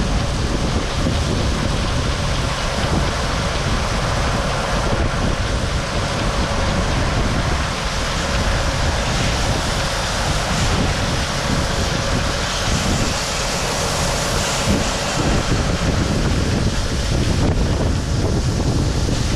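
Farm harvest machinery running steadily under heavy wind noise on the microphone, with a faint steady hum.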